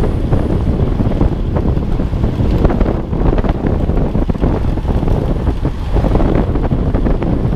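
Loud wind buffeting the microphone: a dense, steady low rumble with frequent small crackles.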